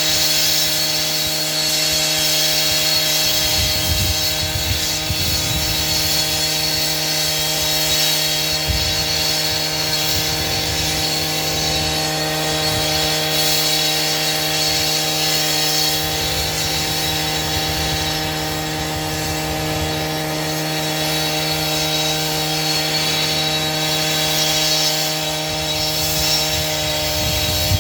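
Power saw running steadily at a constant pitch while cutting, with a few low thumps underneath.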